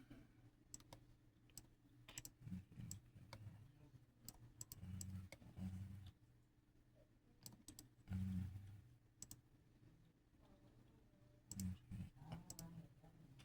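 Faint, irregular clicks and short low knocks, like small objects being handled and set down on a hard surface.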